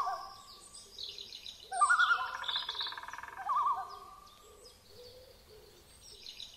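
Bird calls: wavering, whistled calls, the loudest starting about two seconds in and fading out, with fainter high chirps above them.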